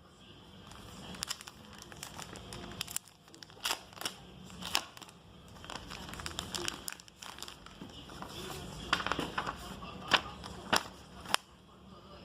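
Packaging being handled: plastic wrapping crinkling and cardboard rustling, with sharp clicks and knocks scattered throughout.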